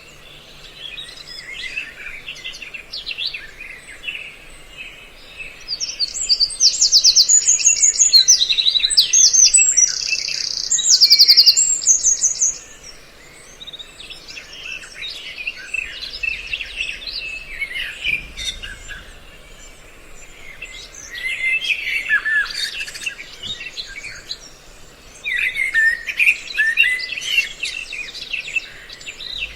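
Several birds calling and singing at once, with a mix of quick chirps and fast high trills. This is a bird-call lure recording of several species, made to draw birds in. It is loudest in stretches from a few seconds in to about halfway, and again in the last third.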